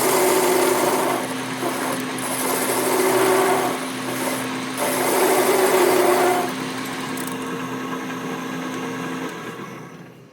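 Handheld electric power tool running on steel suspension parts, with a steady motor hum and three louder spells of cutting or grinding about a second and a half each. The motor cuts off about nine seconds in and the sound dies away.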